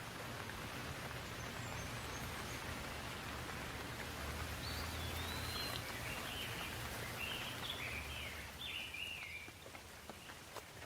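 Steady rain falling, an even hiss with a low rumble beneath it. Birds chirp over the rain from about four seconds in, a quick run of short rising and falling calls that fades out near the end.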